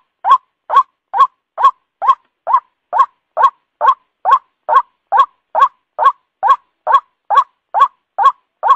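White-breasted waterhen calling: a fast, even series of short, loud notes, about two and a half a second, each bending slightly upward in pitch.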